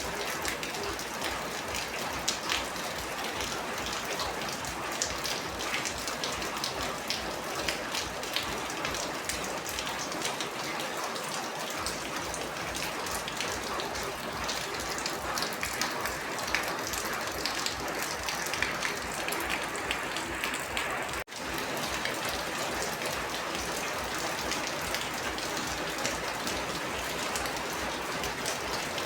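Steady rain with a dense patter of individual drops falling on a surface. There is a momentary break in the sound about two-thirds through.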